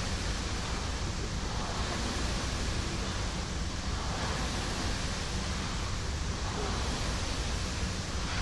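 Concept 2 air rower's flywheel fan whooshing, swelling with each slow stroke about every two seconds.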